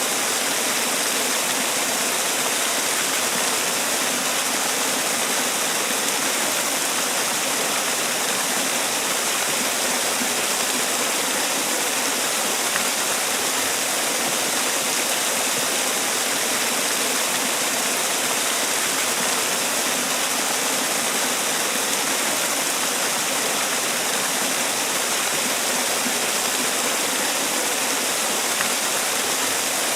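Man-made waterfall: water pouring and splashing in a steady, unbroken rush.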